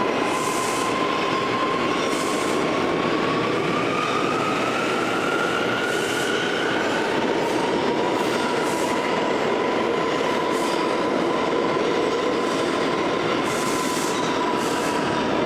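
R179 subway train running on the rails: a steady rumble with a thin whine that slowly rises in pitch and then holds level, and brief hissing wheel noises every second or two.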